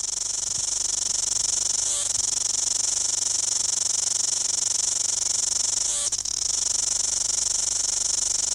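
A New Zealand cicada singing: a loud, steady, high-pitched buzz that wavers briefly every few seconds.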